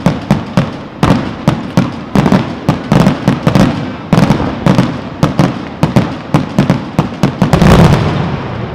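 Aerial fireworks display: a rapid barrage of shell bursts, several sharp bangs a second, crowding into a dense, loud cluster near the end before fading into a rumble.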